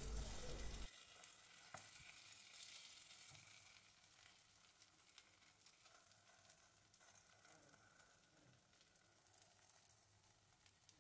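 Pancake batter frying in oil in a nonstick kadai, sizzling faintly. The sizzle is louder for about the first second, then very quiet.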